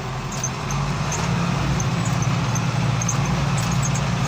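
Front loader's diesel engine running steadily, picking up revs about a second in and holding there.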